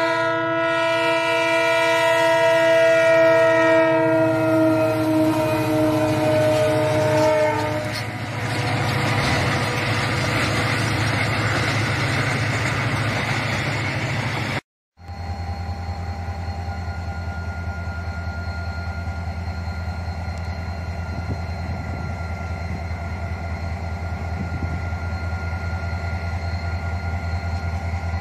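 A train's air horn sounds a multi-note chord for about seven seconds, dipping in pitch as it ends, followed by the rushing noise of a freight train passing close by. After an abrupt cut, a diesel locomotive's engine throbs steadily as the locomotive approaches.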